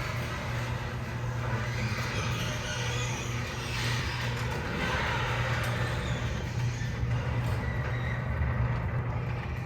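Garage door opener running, its motor humming steadily as the sectional garage door travels along its tracks.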